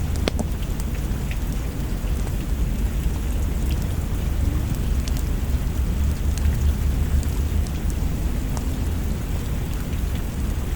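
Steady rain with a deep rumble underneath, over which a log fire crackles with scattered sharp pops, one stronger pop right at the start.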